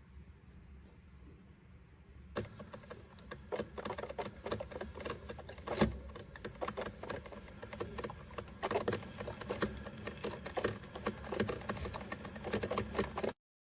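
BLACK+DECKER 12-cup drip coffee maker starting to brew: rapid, irregular crackling and popping as the heater pushes water up through the machine, beginning about two seconds in and cutting off abruptly near the end.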